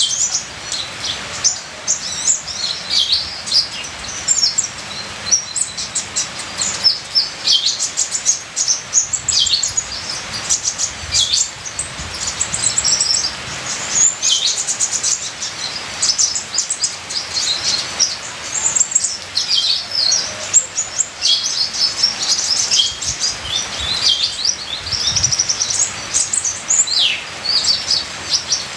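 Sunbird of the kind Indonesian bird-keepers call kolibri ninja, singing continuously: rapid, high-pitched chirps, twitters and short trills with many quick downward sweeps, over a faint steady hiss of trickling water.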